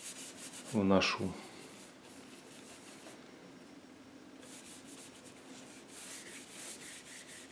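Paintbrush rubbing acrylic paint onto the painting in short, scratchy strokes, working a warm tint of white and ochre into the sky. The strokes are faint, ease off in the middle and pick up again near the end.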